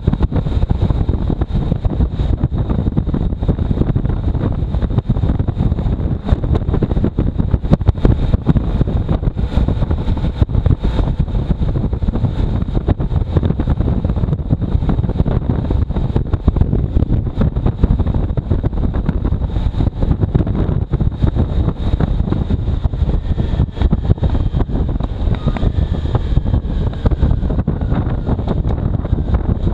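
Heavy wind buffeting the microphone on a moving motorcycle, with the motorcycle's engine and road noise underneath in a steady, loud rumble.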